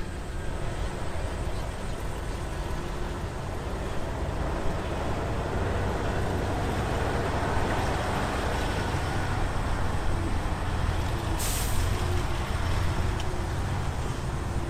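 Heavy diesel earthmoving machinery running steadily with a deep rumble, and a short sharp hiss of air, like a dump truck's air brake, about eleven seconds in.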